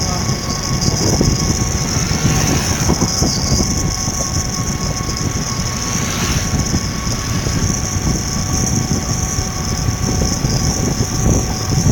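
Steady rumble of a vehicle's engine running, with no breaks and a faint steady hum over it.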